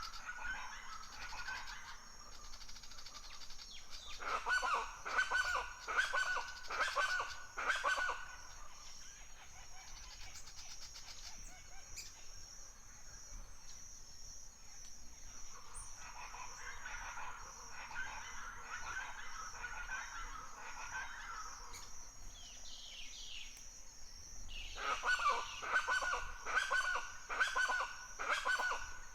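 Forest birds calling: two loud runs of rapid, repeated chattering calls, one a few seconds in and one near the end, with softer warbling between them, over a steady high-pitched drone.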